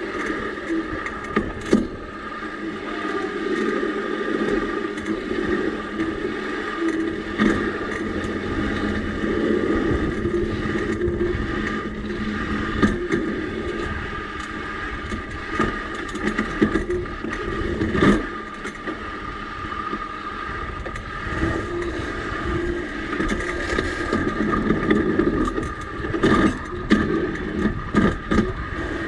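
Home-built railbike rolling along old rails: steady rumbling wheel noise with high ringing tones from the wheels on the rail, and irregular sharp clacks and knocks, the loudest about two-thirds of the way through and several close together near the end.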